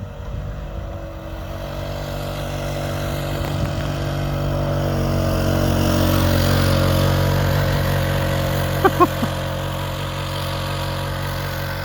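Six-wheel-drive utility vehicle's engine driving through deep snow, growing louder as it comes closer, loudest a little past the middle, then easing off. There are a couple of short, sharp squeaks a little before the end.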